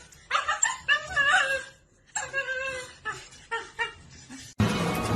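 A dog whining in two drawn-out stretches, then a few short yips; music starts abruptly near the end.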